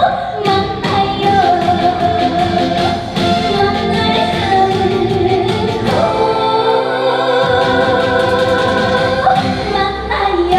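Live trot song: a woman sings over a full band backing track with drums, amplified through the venue's sound system. The bass drops out briefly about six seconds in, then comes back.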